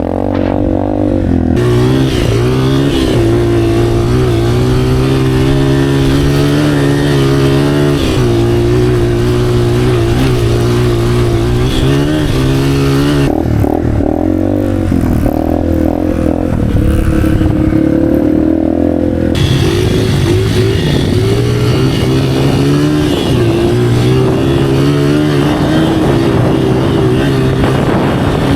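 Motorcycle engine running steadily under way for the whole stretch, its pitch wavering up and down a little. The engine sound changes briefly around the middle.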